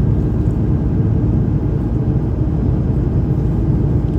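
Steady low rumble of Airbus A330-300 cabin noise in flight: engine and airflow noise heard from an economy seat, with a faint steady hum.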